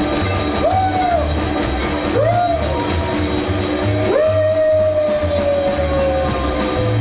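Live rockabilly band playing over a steady bass line. A lead instrument slides its notes up and then down in three swoops, the last a long, slowly falling note.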